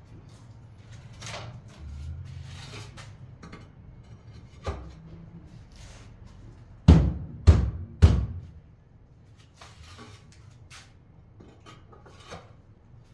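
Three heavy knocks about half a second apart, with lighter knocks and clatter before and after them.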